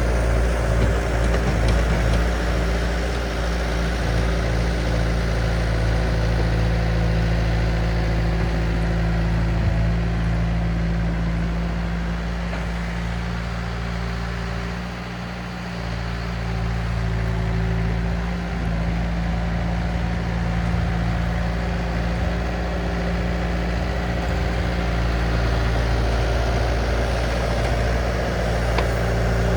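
Diesel engine of a compact earth-moving machine running steadily, with a slight easing of load around the middle.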